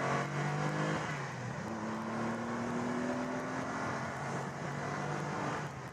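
A Noble's twin-turbo 3.0-litre V6 pulls on the road, heard from inside the cabin. The engine note changes pitch about a second and a half in, then climbs slowly as the car gathers speed.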